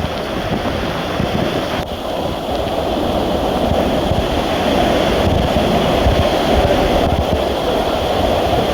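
Tropical-storm wind blowing across the microphone over rushing water, a steady noise that slowly grows louder.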